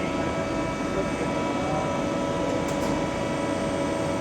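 Steady hum of running workshop machinery with several constant whining tones over it.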